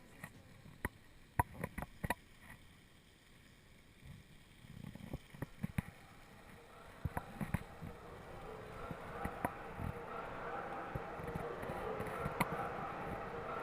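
Bicycle ride noise picked up by a chest-mounted GoPro: scattered sharp knocks and rattles in the first few seconds, then a steadily rising rush of background noise.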